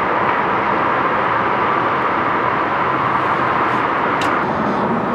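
A steady rushing noise with no change in level or pitch.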